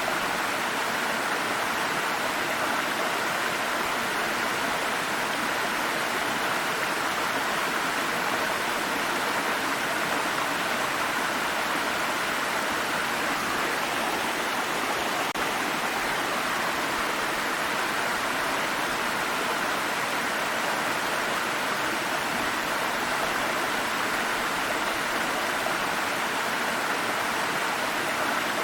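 Water stream running steadily over rocks, an even rushing babble that does not change.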